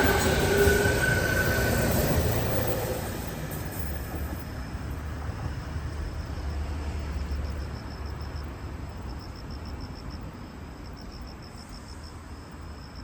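Electric train moving along the platform, loud at first with a whining tone for the first couple of seconds, then fading steadily as it draws away. A faint, rapid, high-pitched pulsing sounds under it from about four seconds in.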